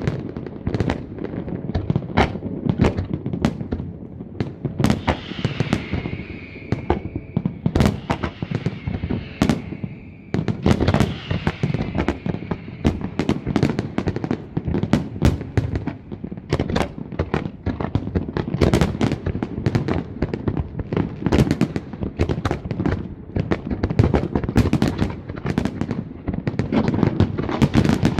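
Fireworks display: a continuous barrage of aerial shell bursts, several sharp bangs a second with no let-up. A hissing rides over the bangs for several seconds in the first half.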